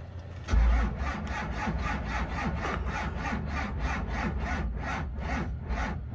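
12-valve Cummins inline-six diesel cranked by its starter in the cold, turning over slowly in an even rhythm of about three to four pulses a second without catching. It is a cold start with no grid heater or block heater on a weak, charging battery.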